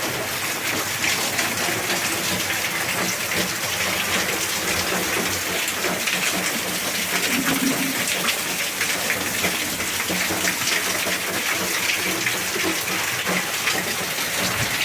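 Heavy rain pouring steadily, a dense even hiss of falling drops.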